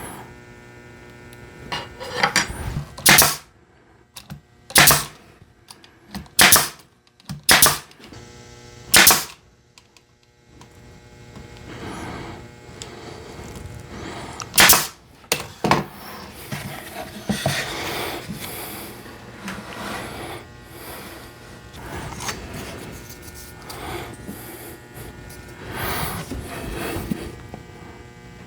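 Nail gun firing about six times, each a sharp crack, spaced irregularly a second or two apart, while cedar bird-feeder pieces are fastened together. Quieter uneven noise follows in the second half.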